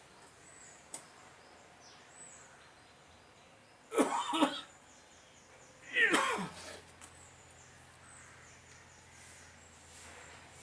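A person making two short, loud throat sounds, about two seconds apart, the second falling sharply in pitch. Faint high chirps repeat in the background.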